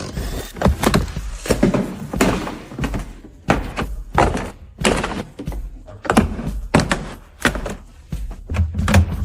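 Irregular knocks and thunks, roughly one or two a second, with short stretches of scraping noise between them.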